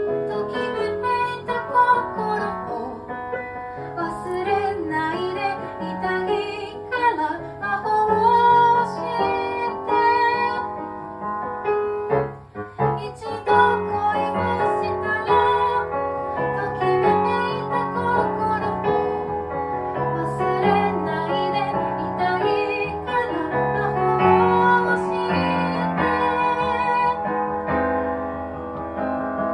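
A woman singing a song with piano or electric keyboard accompaniment, the music dipping briefly about halfway through.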